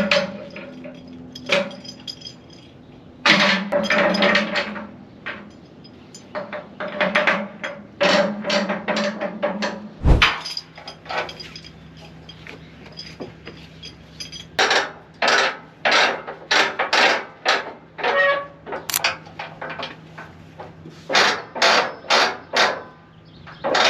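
Repeated metallic clanks and knocks, scattered at first and then coming in a quick run of strikes in the second half.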